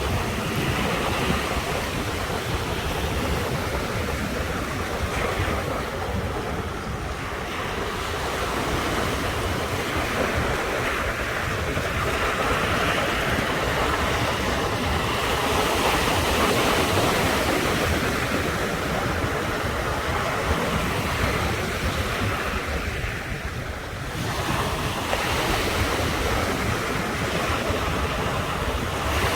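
Ocean surf breaking continuously on the shore, swelling and easing, with brief lulls about a quarter of the way in and again near the end. Wind rumbles on the microphone underneath.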